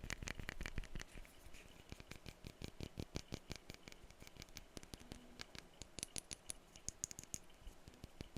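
Glass perfume bottles being tapped: a rapid, irregular run of light taps with a faint glassy ring. The taps are dense and loudest in the first second, then lighter and sparser, with a few brief high ringing notes about six seconds in.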